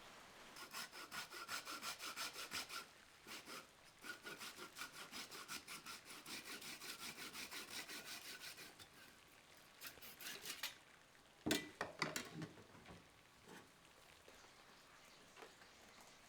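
Hand saw cutting through wood in quick, even back-and-forth strokes, about five a second, pausing briefly and then sawing on; a few sharp knocks follow about eleven seconds in.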